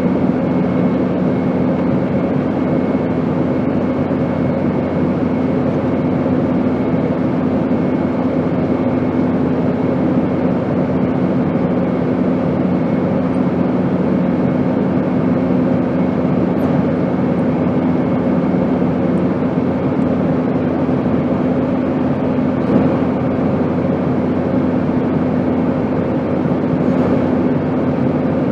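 Airplane engine noise: a steady, even rush with a low hum at a constant pitch.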